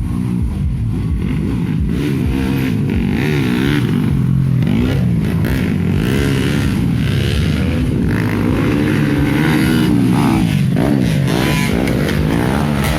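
Several dirt-bike racing motorcycles revving and running together, their engine notes overlapping and repeatedly rising and falling in pitch as the riders work the throttle.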